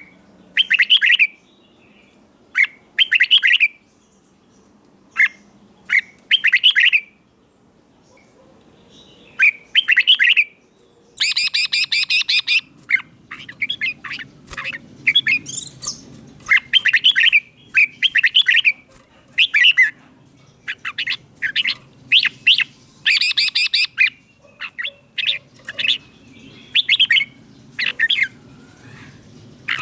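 Red-whiskered bulbul singing: short, bright, warbling phrases repeated every second or two, with a longer, denser burst about eleven seconds in.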